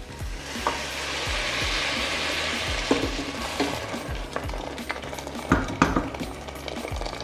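Hot water poured into a pan of rice frying in oil hisses and sizzles loudly, then dies down after about three seconds. A few sharp knocks of a utensil on the pan follow, with a faint music beat underneath.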